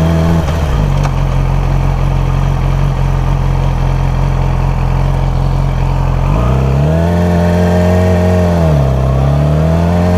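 Motorcycle engine running steadily at low speed, then revving up about six seconds in; the revs drop briefly near the end, as at a gear change, and climb again.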